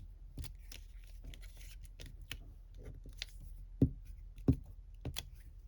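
Paper handling at a craft table: faint rustling and scattered light taps as cut paper pieces are placed and pressed down onto a glued collage, with three sharper clicks in the second half.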